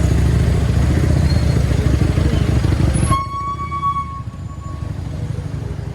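Motorcycle riding along a highway, its engine and wind noise rumbling loudly on the microphone; about three seconds in the rumble drops off suddenly and a vehicle horn sounds one steady note for about two seconds.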